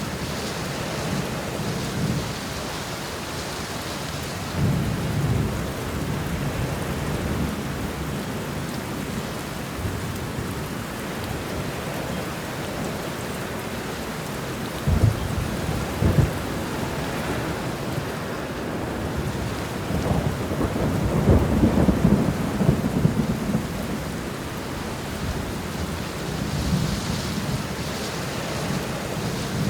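Steady heavy rain with thunder: low rumbles about five seconds in and again about two-thirds of the way through, and two sharp cracks about halfway.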